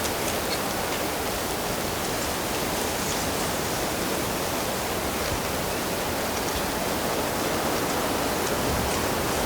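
Steady rushing of flowing water, an even hiss without swells, with a few faint short high ticks over it.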